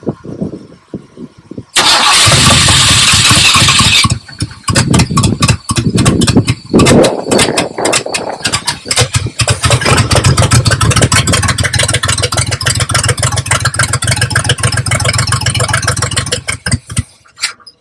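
A 1972 Buick Riviera's 455 V8 is cranked and catches, running rough and uneven with a brief rev, then steadier for about ten seconds. It cuts out suddenly near the end. The fuel pump is not working, so the engine runs only briefly and then dies.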